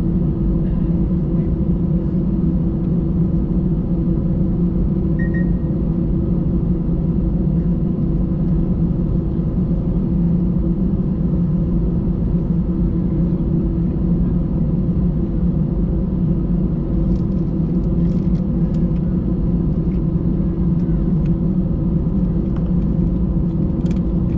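Steady engine and airflow drone of an Airbus A320 heard inside the passenger cabin, a low hum with a few steady tones that neither rises nor falls. A few faint clicks of cabin rattle come in the second half.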